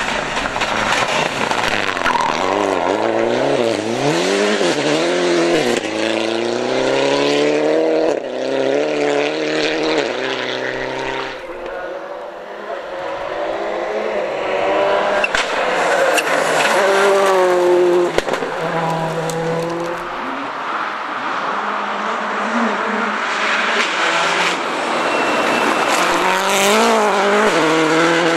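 Rally car engines revving hard on a stage, climbing through the gears, the pitch rising and dropping back at each shift, as cars pass one after another.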